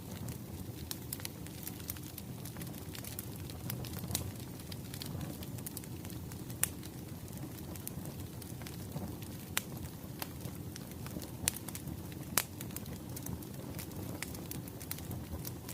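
Wood fire crackling, with a steady low rumble of burning and irregular sharp pops and snaps throughout; the loudest pops come about six and a half and twelve and a half seconds in.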